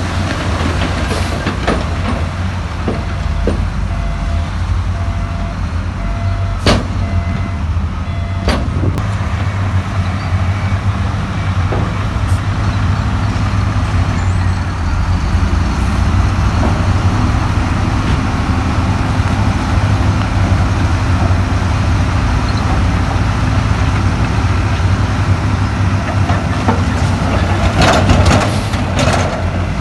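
Heavy diesel earthmoving machine engine running steadily under load, a deep rumble, with a couple of sharp metallic knocks partway through and a burst of clattering near the end.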